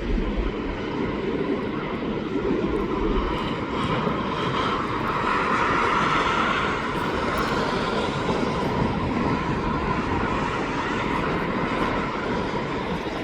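Airliner jet engines running with a steady rushing noise, growing a little louder with a whine-like band about halfway through, then settling back.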